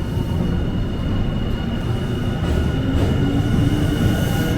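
Train running, a dense steady rumble with a thin steady high whine over it.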